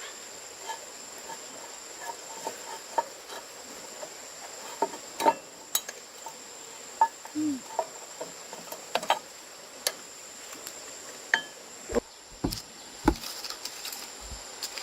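Scattered sharp clinks and knocks of tools on metal while a plough is worked on, with a few heavier knocks near the end, over a steady high insect drone.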